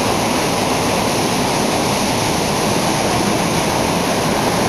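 Waterfall crashing down rocks close by: a loud, steady rush of falling water.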